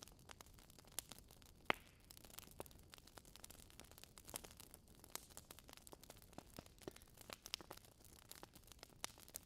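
Burning logs crackling in a fireplace: a steady scatter of small pops and snaps over a low hiss, with one sharper pop just under two seconds in.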